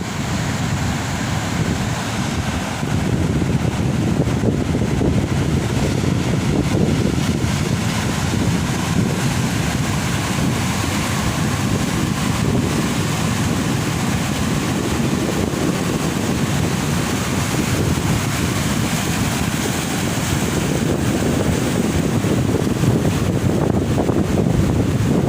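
Strong wind buffeting the microphone over the steady roar of heavy surf.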